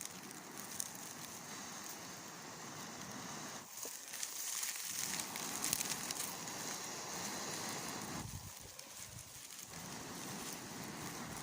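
A person blowing in long, steady breaths on a smouldering ember in charred maguey-fibre and straw tinder to coax it into flame, a breathy hiss that pauses briefly about four seconds in and again about eight seconds in.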